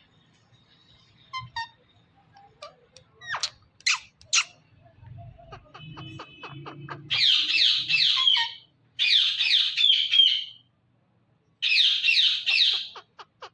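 Pet green parrot giving short chirps and clicks, then three loud, harsh squawks, each lasting about a second and a half.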